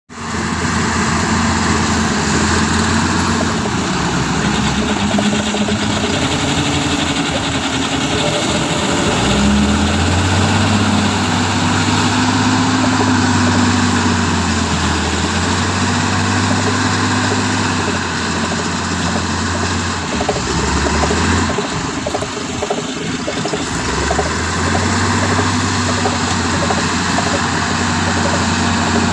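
Mitsubishi Canter dump truck's diesel engine running, its speed raised and held in steps: it rises about a third of the way in, drops back for a few seconds past two-thirds, then rises again.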